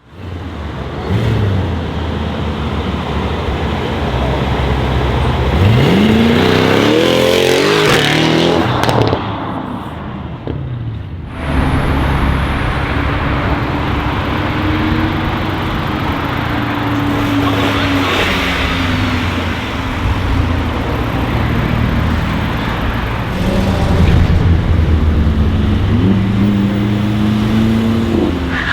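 Tuned Mercedes-AMG E63 S twin-turbo V8 running loud, revved once about six seconds in with the pitch climbing steeply. After an abrupt break it settles into a steady low running note that wavers in pitch and rises again near the end.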